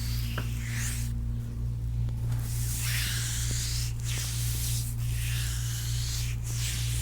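Hands rubbing over the skin of a foot in slow massage strokes, each a long swish of a second or more, coming every two seconds or so. A steady low hum runs underneath.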